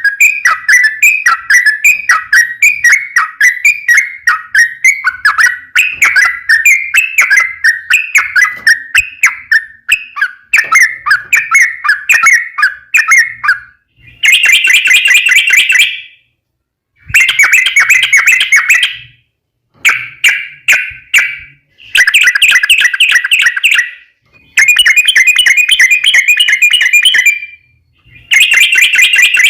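Yellow-vented bulbul (trucuk) singing. The first half is a fast string of short chirps, about three to four a second. From about halfway, it changes to long rolling bursts of song, each about two seconds long with short pauses between them.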